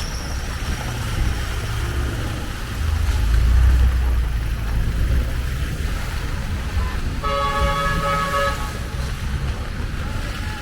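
A vehicle horn sounds once, one held note lasting about a second and a half, a little past the middle, over a steady low rumble of road traffic.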